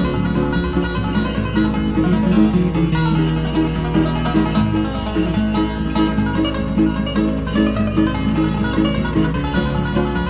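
Bluegrass band playing an instrumental passage with picked banjo, guitar and mandolin over a steady bass line, no singing.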